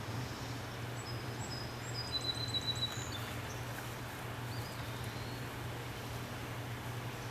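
Small birds chirping, with a quick high trill about two seconds in, over a steady low hum.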